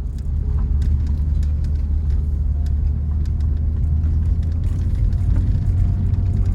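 Car driving on a rough road: a steady low rumble with scattered small clicks and knocks.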